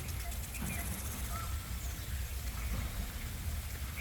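Outdoor ambience: a steady low rumble of wind on the microphone, with a few faint, short bird chirps.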